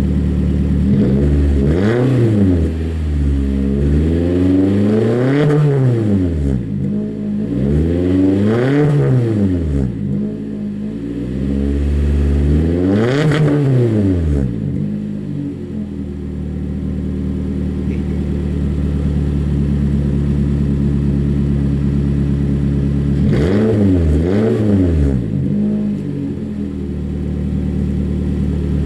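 2020 Toyota Corolla LE's 1.8-litre four-cylinder engine revved through a straight-piped exhaust: four free revs, each rising and falling over two to three seconds, then a steady idle, then two quick blips of the throttle near the end before it settles back to idle.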